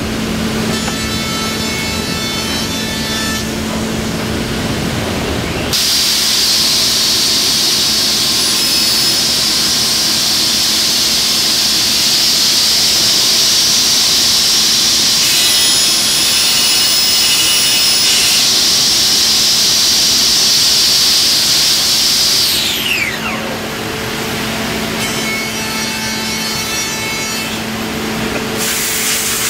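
CNC router milling wood: a steady machine hum underneath, with a loud, harsh cutting noise from about six seconds in until near the end, when it stops and a high whine falls in pitch.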